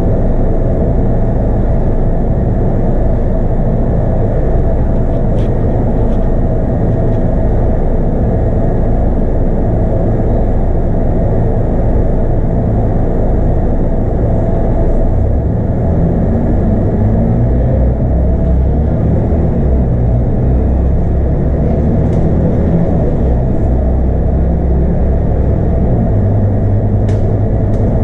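Scania K230UB bus on the move, heard from inside the cabin: its 8.9-litre five-cylinder Scania DC9 diesel runs through the ZF Ecomat automatic under a steady low road rumble. The engine tone shifts around the middle and again near the end, and there are a few light rattles.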